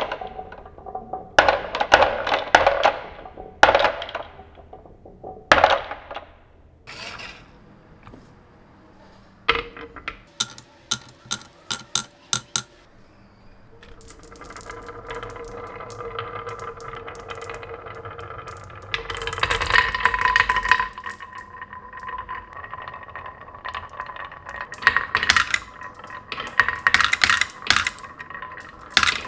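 Marbles clattering along a marble-run track in bursts of rapid clicks, with a few single clicks in the middle. About halfway in a steady humming tone starts and runs under more bursts of clatter.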